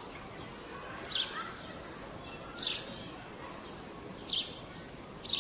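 A bird calling repeatedly: short, high chirps that fall in pitch, about one every second and a half, over a faint steady background of outdoor noise.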